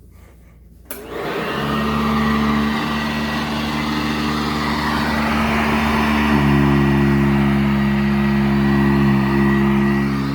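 Sanitaire SC899 commercial upright vacuum switched on with a click about a second in, its motor spinning up and then running steadily. The pitch of its whine steps up about six seconds in.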